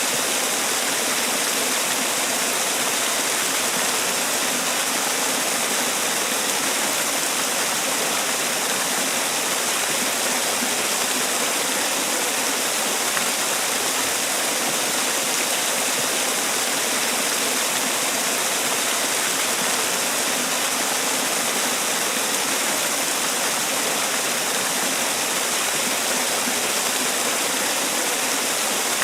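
Man-made waterfall: water pouring and splashing steadily, a constant even rush with no change.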